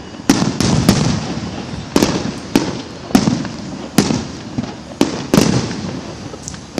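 Fireworks going off in a series of about nine sharp bangs, roughly one every half second to second, each trailing off in a low rumble.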